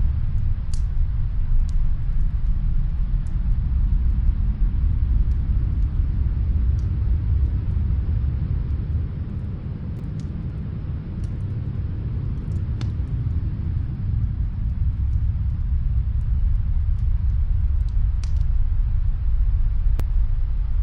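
Snowstorm wind blowing as a deep, steady rumble that eases a little midway and then builds again, with faint scattered crackles from a wood fire in another room.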